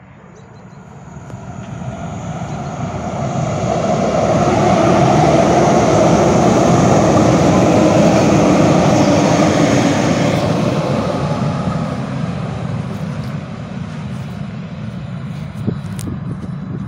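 A train passing close by: its noise builds over a few seconds, stays loud for several seconds, then eases off to a steadier, quieter rumble.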